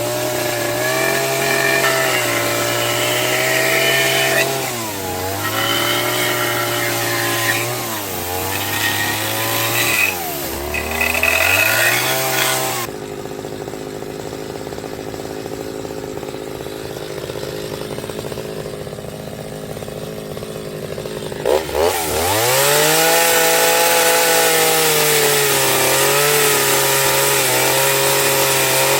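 Two-stroke chainsaw running at high revs, its pitch sagging and recovering several times as it bites into wood. About thirteen seconds in it falls quieter for some eight seconds, then revs back up and runs steadily.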